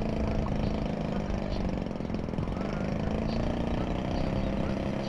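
Steady, even drone of a radio-controlled model aircraft's engine in flight.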